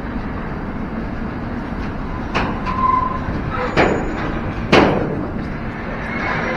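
Freight train of tank wagons rolling slowly along the track: a steady rumble of wheels on rail, broken by three sharp clanks about two and a half, four and five seconds in, the last the loudest, with a brief squeal near three seconds.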